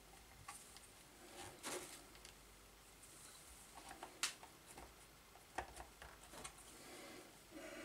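Faint, scattered clicks and taps of small motor parts being handled and fitted, about half a dozen over several seconds, with one sharper click near the middle.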